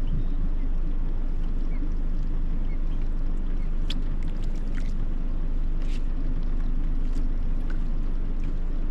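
Steady low rumble aboard a small fishing boat on the water, with a few faint short ticks between about four and eight seconds in.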